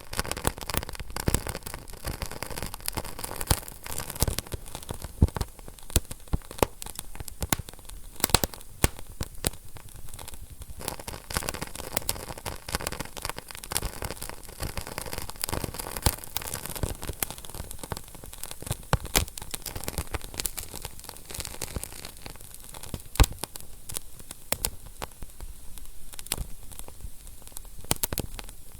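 Wood fire burning in a fireplace, crackling and popping: irregular sharp snaps over a steady hiss of flame.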